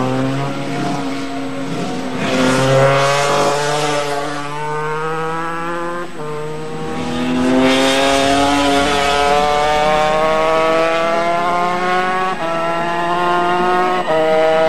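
Two-stroke Honda RS250 race bike engines accelerating hard, more than one at a time, their pitch climbing steadily and dropping sharply at each upshift, about halfway through and twice near the end.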